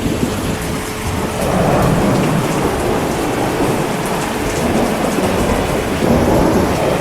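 Heavy rain falling steadily, with thunder rumbling under it that swells about a second and a half in and again near the end.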